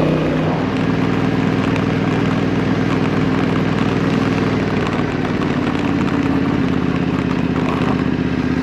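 Yamaha Ténéré 700's parallel-twin engine running steadily.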